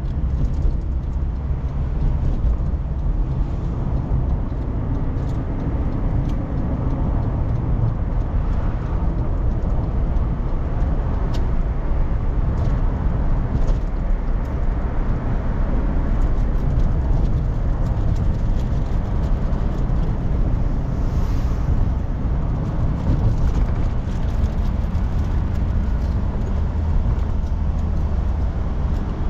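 A car's steady low rumble of engine and road noise, heard inside the cabin, with a few faint clicks.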